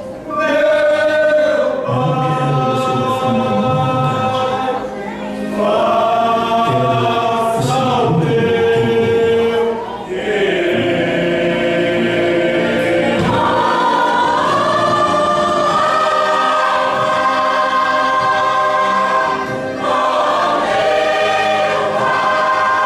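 Church choir singing a slow sacred piece in long held chords, phrase after phrase.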